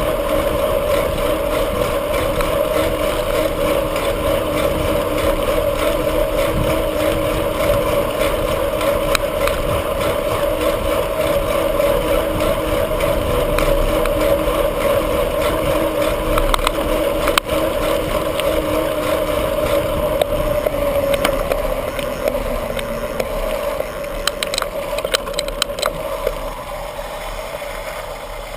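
Steady drone of a bicycle ride picked up by a bike-mounted camera: tyre and wind noise with a steady hum. It eases off near the end, with a short falling tone and a run of light clicks.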